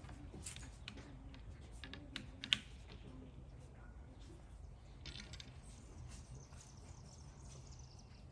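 Scattered light clicks and clinks, with one sharper click about two and a half seconds in, over a faint low hum.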